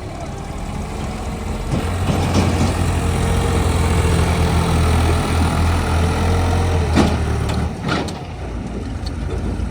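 Heavy diesel engine running steadily. It grows louder about two seconds in and holds there for several seconds, then eases back about two seconds before the end, with a single sharp knock just before the drop.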